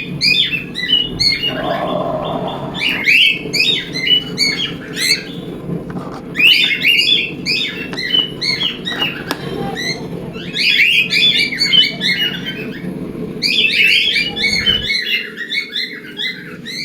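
Several cockatiels chirping in dense bursts of short, high calls with brief pauses between, over a steady low hum that cuts off about fifteen seconds in.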